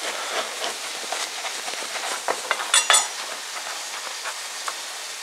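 Chicken breast frying in a grill pan with a steady sizzle, and a short sharp clack about three seconds in.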